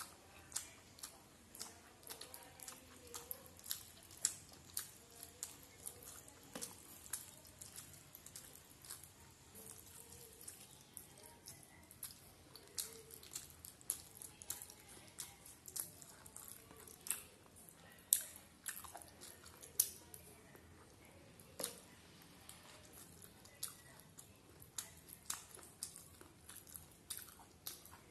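Close-miked chewing of a mouthful of rice and fish eaten by hand: many short, wet mouth clicks and smacks, several a second, with no pause.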